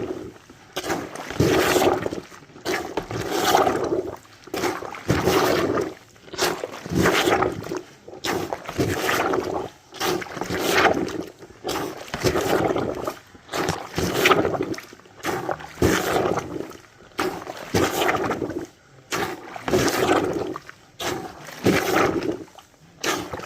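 washOTG hand-operated laundry plunger pumped up and down through clothes in oversudsed water, each stroke a wet slosh and gush, about one every second and a half.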